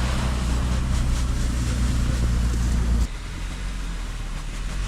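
Off-road SUV's engine revving hard as the driver tries to pull out of a deep snow rut, then dropping back sharply about three seconds in as the throttle comes off.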